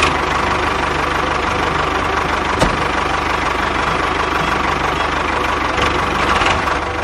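A small engine running steadily, with a fast, even firing rhythm and a single sharp click about two and a half seconds in.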